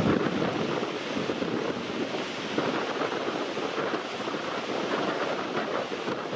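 Strong wind buffeting the microphone: a steady, fluttering rushing noise.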